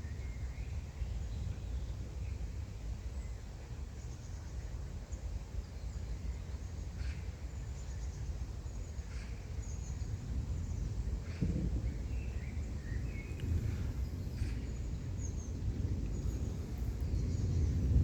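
Low rumble of a distant thunderstorm, swelling near the end, with short high bird chirps scattered throughout.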